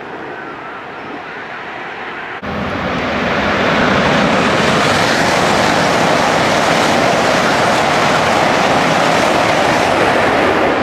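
Train passing close by: a loud, steady rushing noise. It starts abruptly about two and a half seconds in, builds over about a second, then holds.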